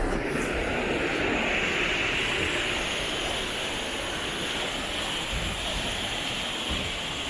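Steady rush of the Truckee River's flowing water, an even hiss. A lower rumble, like a passing vehicle, fades out in the first second or two.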